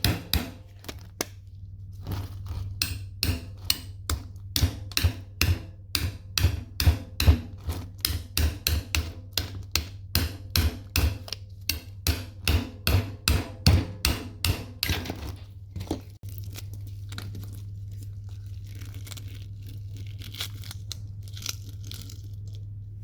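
Repeated hammer blows on the metal parts of a microwave oven being broken up for scrap copper, about two to three strikes a second, stopping about 15 seconds in. After that a steady low hum continues with faint crinkling.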